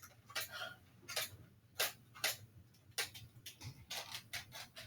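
A string of light, irregular clicks and taps, about a dozen over a few seconds.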